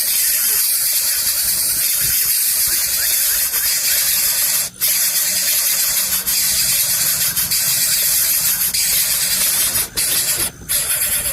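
Coucal nestling's harsh, continuous hissing begging call, breaking off for short pauses a few times near the end.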